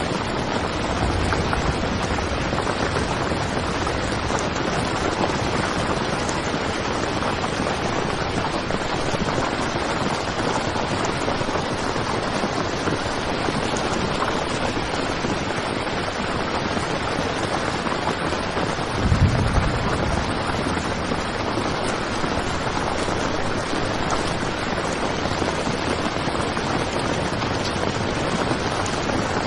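Heavy rain drumming steadily on a tent, with a brief low rumble about two-thirds of the way through.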